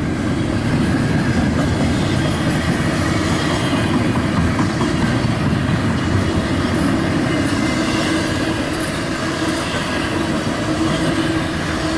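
CSX intermodal freight train's double-stack container cars and trailer flatcars rolling past, a steady, continuous noise of steel wheels running on the rails.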